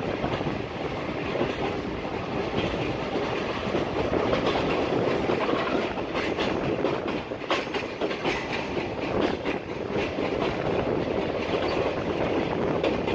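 Passenger train running along the track: a steady rumble of wheels on the rails with scattered clicks.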